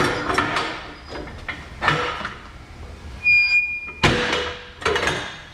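Clunks and knocks of a car door being opened and handled as someone gets into the car. A short single electronic beep sounds just past three seconds in, then a loud thump follows about four seconds in.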